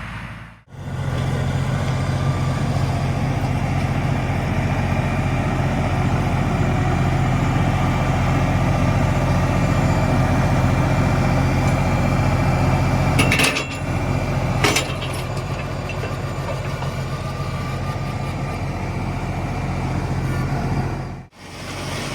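LS MT357 compact tractor's diesel engine running steadily under work, a constant low drone. Midway come two sharp metallic knocks about a second apart, and the engine runs a little quieter after them.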